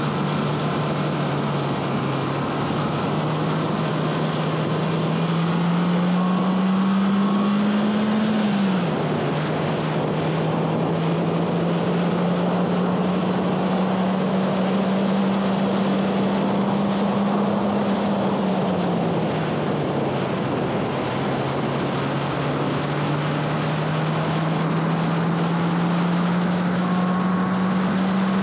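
2011 Honda Fit Sport's 1.5-litre four-cylinder engine at high revs under hard acceleration, its pitch climbing steadily. Revs drop sharply at a quick upshift about a third of the way in, climb again, then fall off more gradually past halfway as the driver lifts, before climbing once more. Wind and road noise run underneath.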